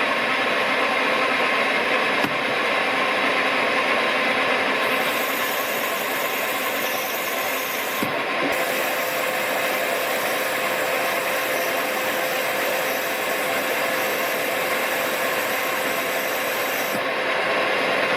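Smart & Brown Model A lathe running steadily while turning a brass spigot, the tool taking a cut. A high hiss from the cut comes in about five seconds in and stops shortly before the end.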